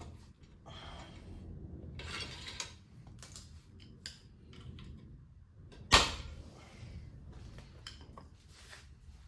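Scattered clicks, scrapes and clinks of hand tools and drum-brake parts being fitted, with a short rasping scrape about two seconds in and one sharp, loud clank about six seconds in.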